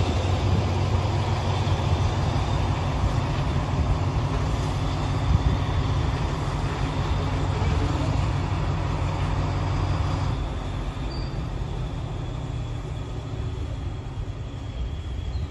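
Alsthom diesel-electric locomotive running with a steady low engine hum; the sound drops off about ten seconds in.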